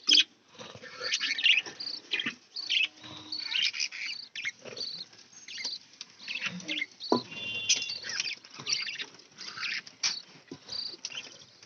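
A flock of captive budgerigars chattering and chirping in quick, scratchy, irregular bursts, with a couple of sharp knocks: one at the start and one about seven seconds in.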